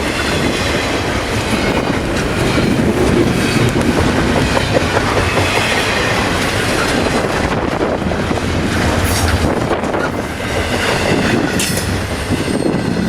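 Freight cars of a long double-stack intermodal train rolling past, steel wheels clicking over rail joints with a continuous rumble and faint wheel squeal.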